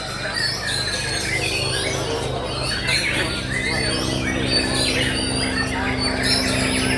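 Several caged white-rumped shamas (murai batu) singing at once in competition: a dense tangle of quick whistled and chirping phrases that overlap throughout, over a steady low hum.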